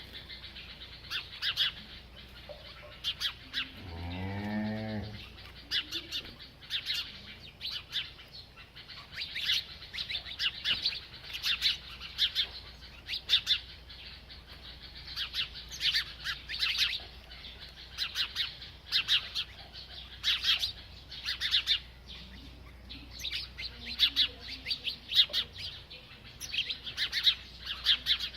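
A small bird chirping over and over in short, high bursts. About four seconds in comes a single deep, drawn-out call, something like a cow's moo.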